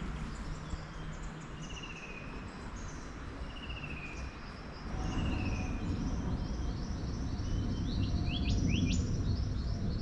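Birds singing: three drawn-out, slightly falling whistled notes evenly spaced, then many short high chirps and a few quick rising notes, over a low steady rumble that grows louder about halfway through.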